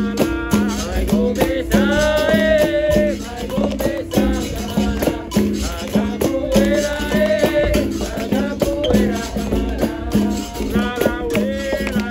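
Capoeira roda music: a berimbau plays a repeating low twanging rhythm with a caxixi shaker rattling along, under call-and-response singing.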